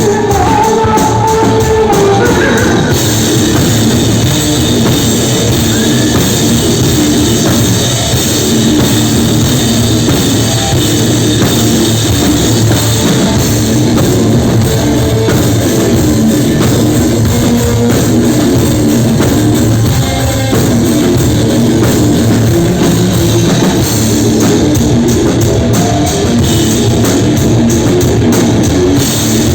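Live rock band playing loudly and steadily, driven by a drum kit and guitar.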